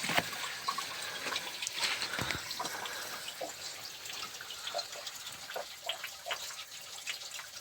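Water trickling and dripping, with many small irregular splashes over a steady rush of water.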